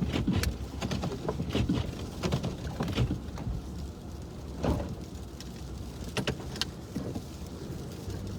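Car cabin noise: a low, steady engine and road rumble, with scattered irregular ticks and taps.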